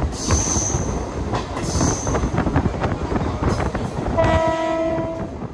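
Mumbai suburban local train running at speed, heard from beside its open doorway: a steady rumble with wheels clicking over the rail joints and two short high hisses in the first two seconds. A train horn sounds for about a second near the end.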